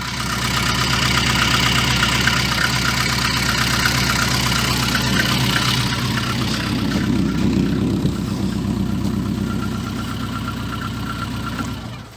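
VAZ-2114 car engine running steadily, with a low bass from a leaking muffler, free of the clatter on throttle release that it had been making. The sound tails off and stops abruptly near the end.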